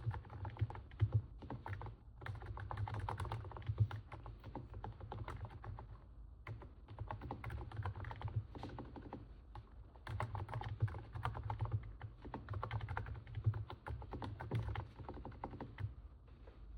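Typing on a NIZ 68 Pro capacitive keyboard: dense runs of quick keystrokes, said to sound like stepping on snow. Brief pauses come about two, six and ten seconds in.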